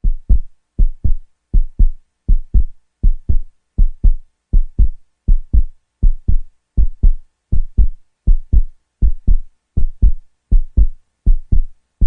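Heartbeat sound effect: a steady double thump, lub-dub, repeating about eighty times a minute, each pair of deep thuds a quarter second apart.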